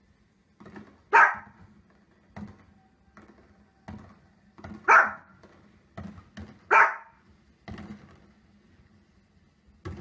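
A dog barking: three loud, sharp barks, about a second in, near the middle and a little later, with softer thumps in between.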